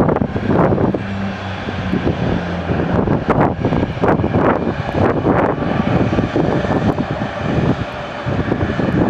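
Airliner engines running loud, a dense steady rush with a low hum for a couple of seconds near the start.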